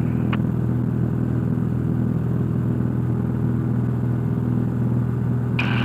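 Cessna 172's piston engine and propeller running steadily at full power in the climb after takeoff, a constant drone heard inside the cockpit.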